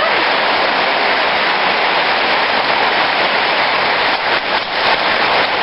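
Steady, dense hiss of hard rain falling.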